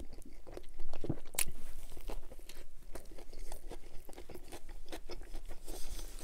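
A person biting into and chewing a soft flatbread wrap sandwich close to the microphone, a quick irregular run of small crisp clicks with one sharper snap about a second and a half in.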